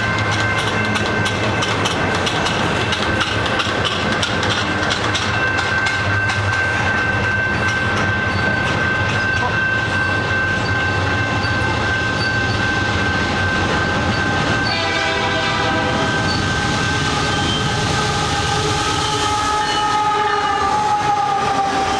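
A train passing close by, loud and steady with rail and wheel noise and a steady high tone. About fifteen seconds in, a multi-note train horn sounds and holds, sagging slightly in pitch near the end.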